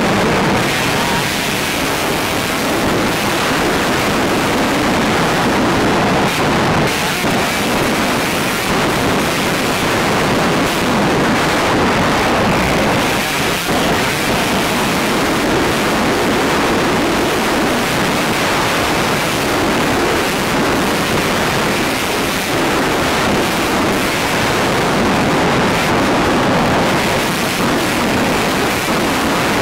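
Motocross bike being ridden, its engine running under heavy wind noise buffeting a helmet-mounted camera's microphone.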